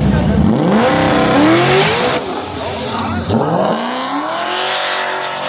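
Race car accelerating hard down a drag strip. The engine's pitch climbs, drops at a gear change about two seconds in, then climbs again and levels off.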